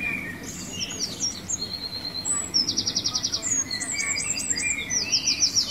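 Birds chirping and twittering: scattered high chirps, then two fast trills, with a run of four or five quick falling whistles between them, over a steady low background noise.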